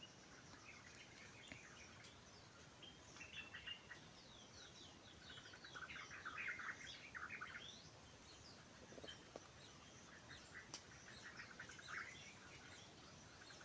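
Faint birds chirping in runs of quick, short notes over near silence, busiest from about three to eight seconds in and again near the end.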